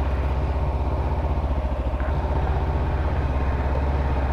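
Kawasaki Ninja parallel-twin motorcycle engine running steadily at low revs, an even pulsing rumble.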